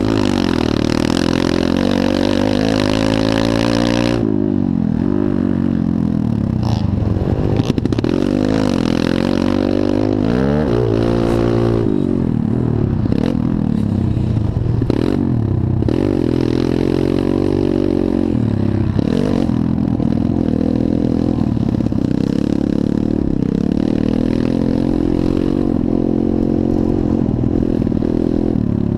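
Pit bike engines racing on a motocross track, revving up and falling back again and again through gear changes and throttle, with a continuous loud engine drone.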